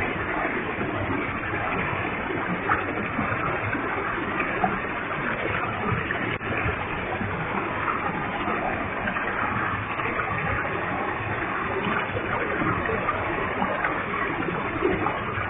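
A waterfall with a heavy flow of water: falling water and spray rushing steadily.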